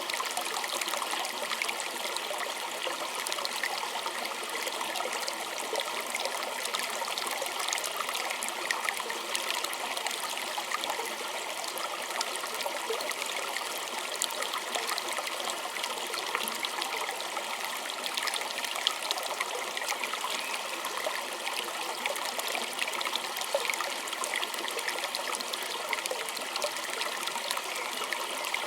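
Small creek trickling and babbling over stones: a steady wash of water with many small splashes and droplets.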